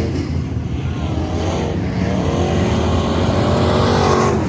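V8 pure stock dirt-track race car engine accelerating under load, its pitch climbing steadily for a couple of seconds as the revs build.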